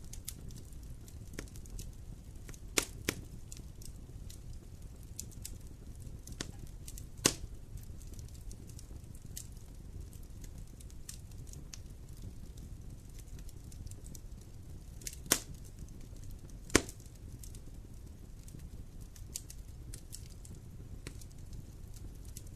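Campfire burning with scattered wood crackles and a few sharper pops, over a low steady rumble of the flames.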